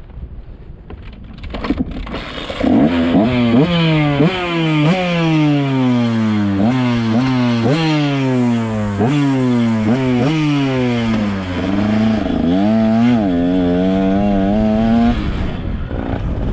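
Dirt bike engine under a riding motocross rider, the throttle opened and closed over and over, so the pitch snaps up and falls away about once a second. Near the end it holds a steadier, wavering note, then drops away.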